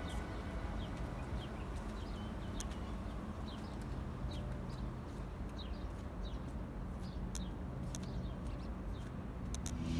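A small bird chirping over and over, short falling chirps roughly every half second, over a faint low hum.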